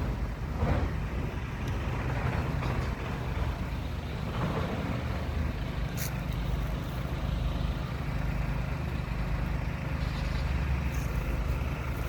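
Road traffic: a steady low engine rumble with a few vehicles passing by, and a short click about six seconds in.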